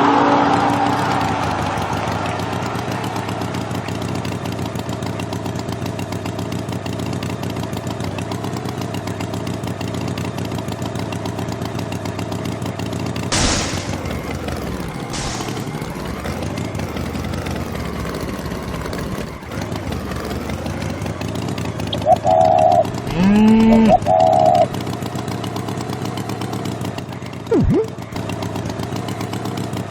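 An engine running steadily throughout, with two sharp knocks a little before the middle and two short pitched calls that bend in pitch about 22 seconds in.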